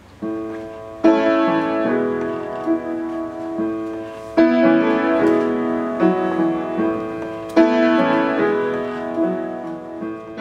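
Piano playing slow chords, a strong chord struck about every three seconds and left to ring down, with softer notes in between.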